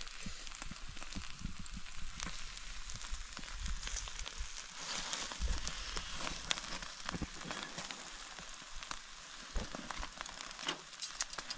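Beef tomahawk steaks sizzling as they sear over open campfire flames, a steady hiss of fat spitting with scattered sharp pops and crackles.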